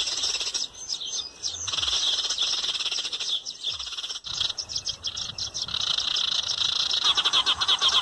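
Small birds chirping in a dense, continuous chatter that gets louder and quicker about seven seconds in.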